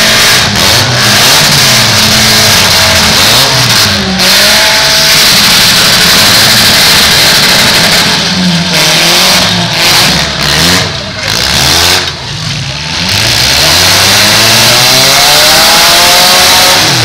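Several compact demolition-derby cars' engines revving up and easing off at once, their pitches rising and falling over one another through a loud, dense wash of engine noise.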